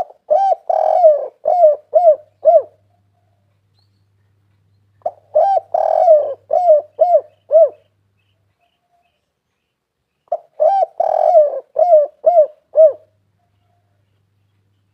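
Spotted dove cooing: three song phrases about five seconds apart, each a quick run of seven or eight short rising-and-falling coos.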